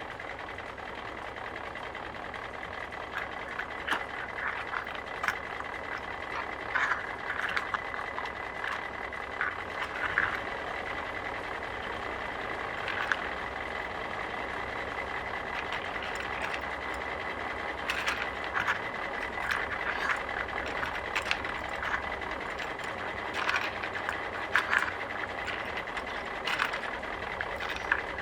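Construction-site machinery sound: engines running steadily with a faint high whine, with irregular clanks and knocks on top.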